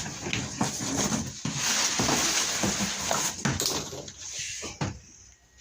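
Plastic and cardboard packaging crinkling and rustling as a washing machine is unpacked from its box, with many short crackles, dying away about five seconds in.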